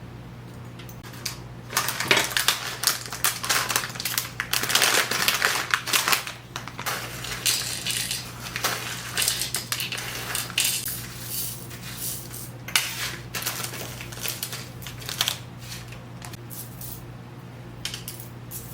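Small hard beads clicking and rattling against each other in quick, irregular runs, busiest in the first half and thinning to a few scattered clicks near the end.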